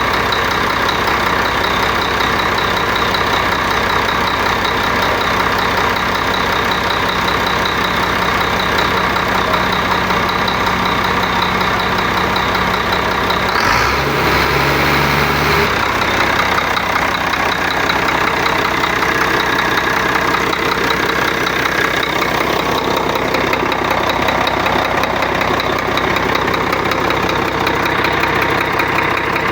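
Freshly overhauled Weichai diesel engine of a wheel loader idling steadily, with a brief change in its tone about halfway through that lasts some two seconds.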